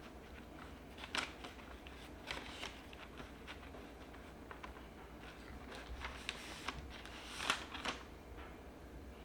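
Household objects being handled: scattered soft clicks and rustles, the sharpest about a second in and two close together around seven and a half seconds in, over a faint low hum.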